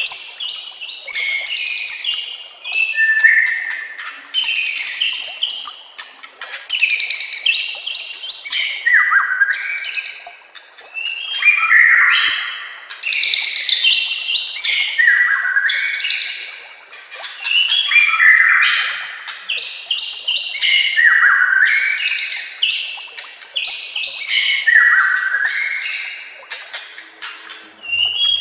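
White-rumped shama (murai batu) singing continuously: varied phrases of rapid whistled notes and trills, a new phrase beginning about every two seconds.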